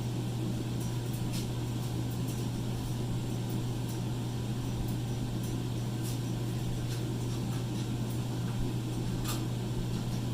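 Steady low hum of a running fan, with a few faint light ticks.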